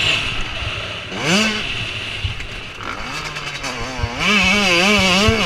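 Motocross motorcycle engines running at high revs: one engine note climbs sharply about a second in, and from about four seconds in a bike's engine pitch swings up and down repeatedly as the throttle is worked.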